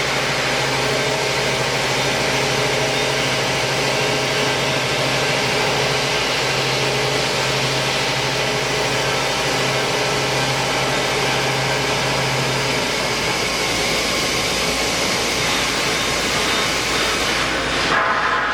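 Large industrial band sawing machine (KOTEC Diamond-1300DT) running steadily while cutting a steel H-beam: a dense mechanical noise with a low hum that drops out about two-thirds of the way through. The sound changes abruptly near the end.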